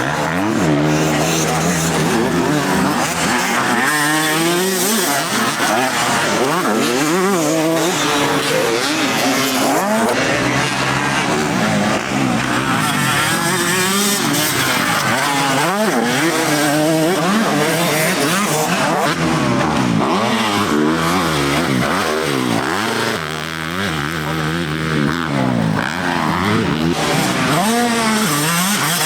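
Several motocross bikes racing, their engines revving up and falling back over and over as they accelerate and shift, several at once.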